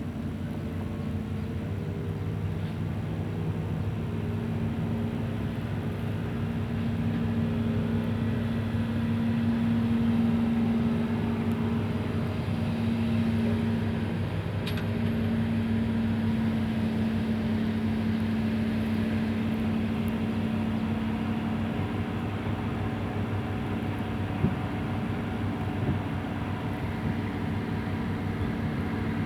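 Diesel engine of an excavator running steadily, swelling a little in loudness partway through as it works under load. Two short knocks come near the end.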